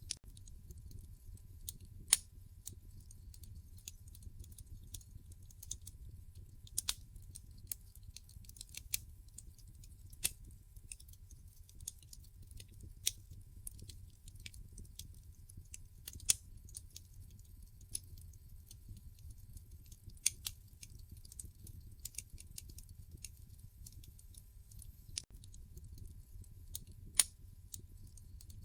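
Wood fire crackling in a fireplace: irregular sharp pops and snaps of burning logs, a few louder ones standing out, over a low steady rumble of the flames.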